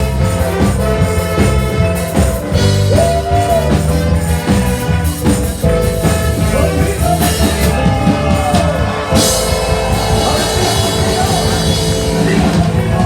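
A worship band playing rock-style music with a drum kit and sustained instrumental notes.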